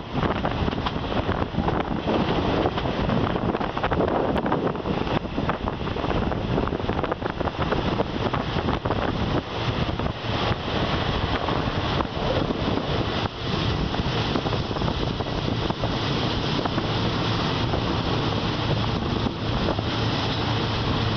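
Wind rushing over the microphone from the open window of a moving passenger train, mixed with the train's running noise and the click of wheels over the rails. A low steady hum joins in over the last few seconds.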